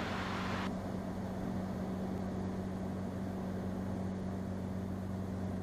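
Steady drone of a Cirrus SR22's six-cylinder piston engine and propeller in flight, with a hiss that cuts off under a second in.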